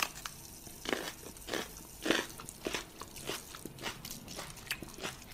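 Crunchy chewing of a hard snack by a man and a large grey dog, in short irregular crunches about three a second.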